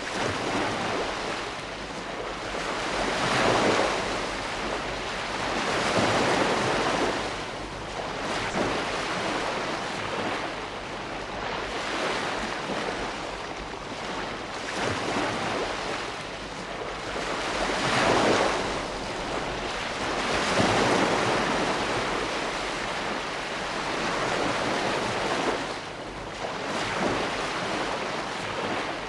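Ocean waves breaking and washing on a shore, a steady surf noise that swells and ebbs every few seconds, with the biggest surges about a fifth of the way in and again past the middle.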